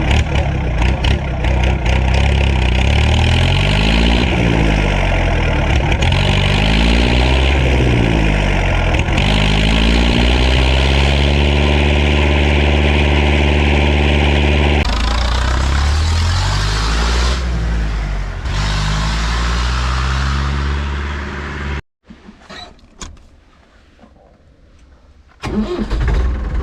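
Massey Ferguson 265 tractor's three-cylinder Perkins diesel running and being revved up and down several times, its pitch rising and falling, then running more steadily. The sound cuts off abruptly about 22 s in, stays much quieter for a few seconds, and engine noise returns near the end.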